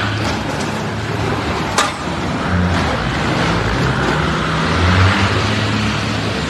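Car on the move: steady engine and tyre-on-road noise, with one sharp click a little under two seconds in.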